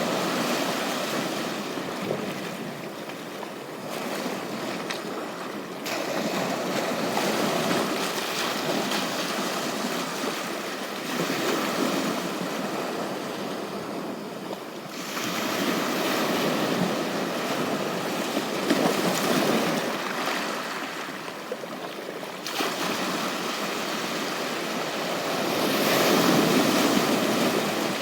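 Waves washing onto a beach, the surf swelling and easing every few seconds.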